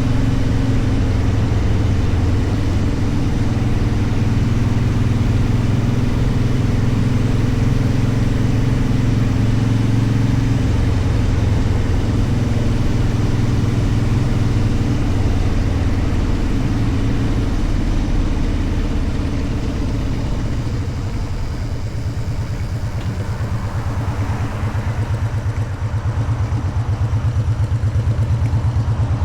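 Motorcycle engine running steadily while riding, with road and air noise. About two-thirds of the way through the engine note eases off and the sound gets quieter, then it picks up again near the end.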